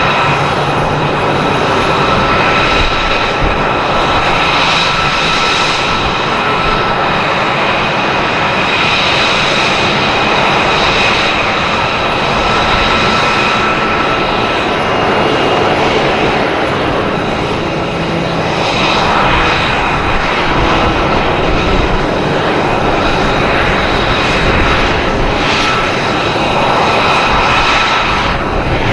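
F-22 Raptor's jet engines running loud and steady with a high whine over a broad roar, swelling and easing several times as the jet manoeuvres.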